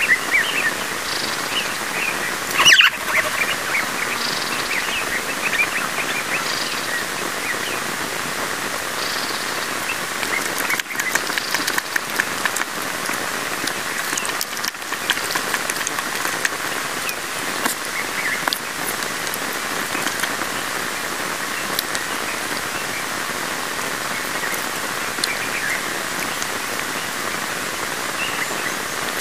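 Small birds chirping over a steady hiss, with one sharp knock about three seconds in.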